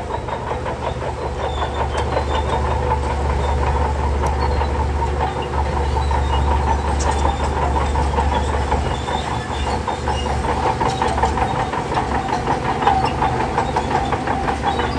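Shantui DH17C3 crawler bulldozer working: the diesel engine runs with a steady low drone while the steel tracks clank in a fast, even rattle.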